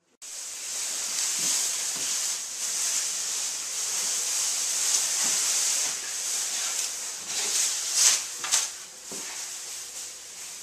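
Steady high-pitched hissing noise that starts suddenly, with a few short louder scrapes or knocks near the end.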